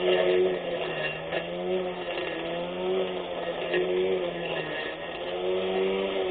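24V brushless electric lawn mower's motor whining steadily while cutting. Its pitch sags and recovers every second or so as the load changes.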